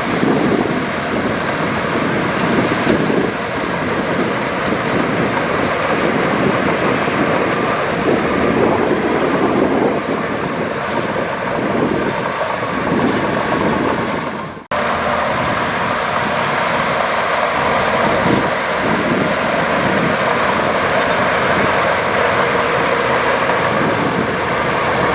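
Diesel engines of heavy earthmoving machinery, a bulldozer and dump truck, running steadily under load. The sound drops out for a moment about two-thirds of the way through, then resumes.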